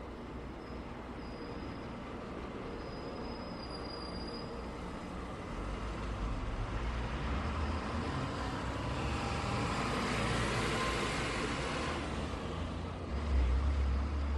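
Road traffic going by: a steady tyre and engine hiss, with a heavier vehicle's low rumble swelling past in the middle, and a brief deep thump near the end.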